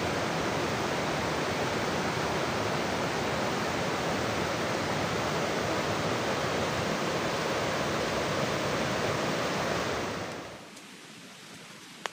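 Steady, loud rush of water. About ten seconds in it drops abruptly to a much quieter background with a few faint drips.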